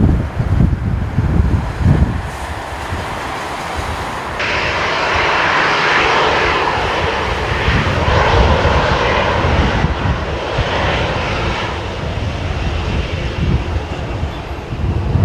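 Boeing 747-400 jet airliner passing low on landing approach: the rushing noise of its four Rolls-Royce RB211 turbofans swells suddenly about four seconds in and fades near the end. Gusty crosswind buffets the microphone at the start and end.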